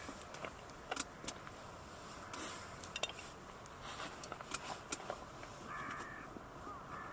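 Crows cawing, with a harsh call about six seconds in and another at the end, over scattered sharp clicks.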